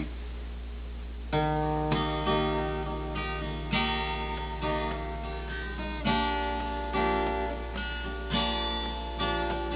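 Acoustic guitar strumming chords as the introduction to a song, starting about a second in, over a steady low hum.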